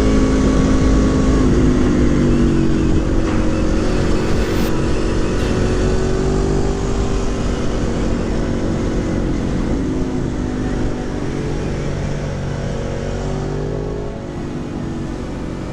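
Gabro Racing Stage 3-tuned Aprilia Tuono engine running under way, its pitch slowly rising and falling with the throttle, with wind rushing over the helmet microphone; the whole sound gradually fades down toward the end.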